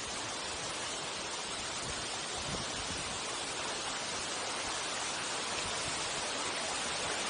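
Steady rush of water from a waterfall, an even noise with no breaks.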